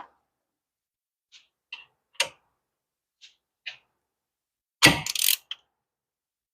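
Hand tools on metal: a socket and ratchet clicking and tapping lightly on the hub assembly bolts, with a louder metallic clatter about five seconds in.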